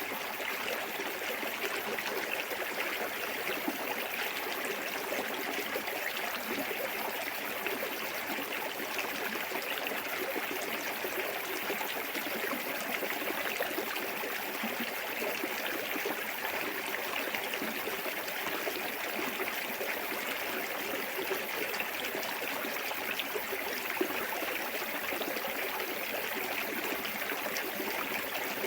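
Small waterfall spilling into a clear forest stream: steady rushing, splashing water with no pause.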